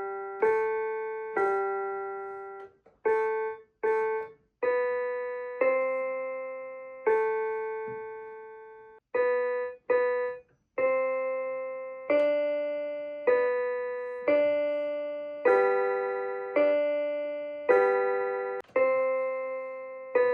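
A simple melody picked out one note at a time on a keyboard. Each note is struck and left to fade, roughly one a second, with a few short silences between notes.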